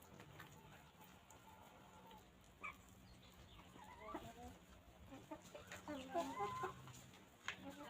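Hens clucking: a few short calls around the middle, then a louder run of clucks in the second half, with a single sharp click about two and a half seconds in.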